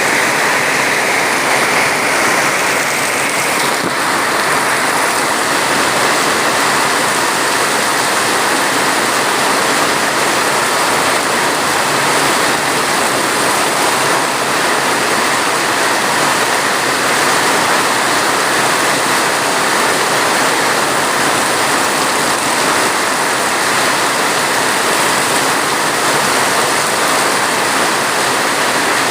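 Steady heavy rain, a dense even hiss with no single drops standing out.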